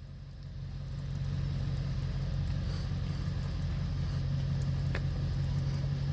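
Vehicle engine running steadily at a low idle, getting louder over the first second and a half and then holding even.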